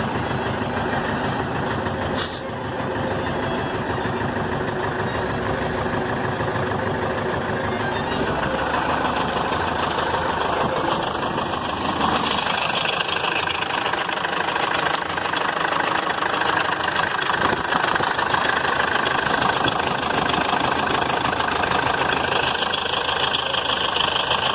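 MMZ D-245 four-cylinder diesel engine running steadily on a test run, with a diesel's knocking clatter. There is a short click about two seconds in, and the engine gets a little louder from about twelve seconds in.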